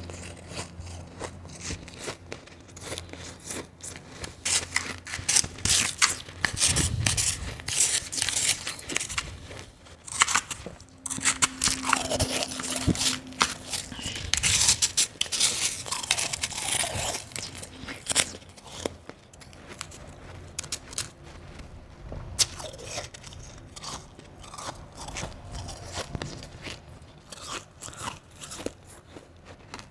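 A person biting and chewing crunchy blended and shaved ice, close to the microphone: a dense run of irregular crunches and crackles, heaviest in the middle and lighter toward the end.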